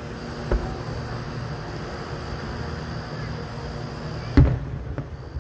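Distant fireworks bursts booming: a dull boom about half a second in and a louder one near the end, followed shortly by a smaller pop, over a steady low hum.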